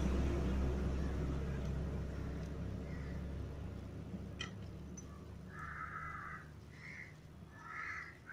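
A low vehicle-engine rumble fading away, then a bird giving four short harsh calls in the second half. There is a single sharp click about four and a half seconds in.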